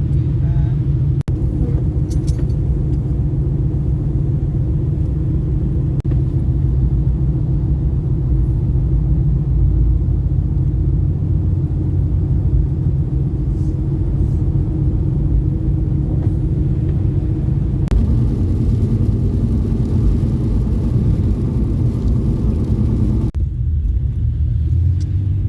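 Steady low rumble of a car driving, heard from inside the cabin: engine and road noise with no breaks.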